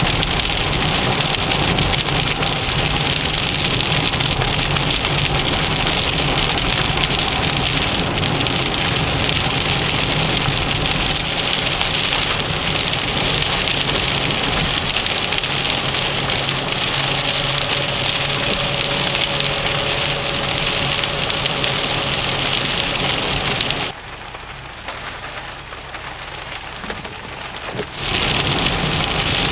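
Heavy rain on a moving car, a steady hiss of rain and road noise. About four seconds before the end it drops away sharply, then comes back just as loud.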